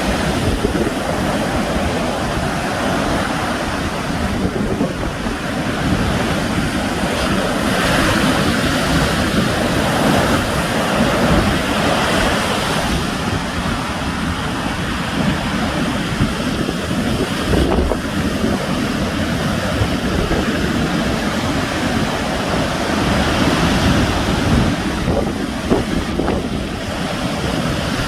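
Sea waves breaking and washing on the shore in a steady rushing surf, swelling and easing gently, with wind buffeting the microphone.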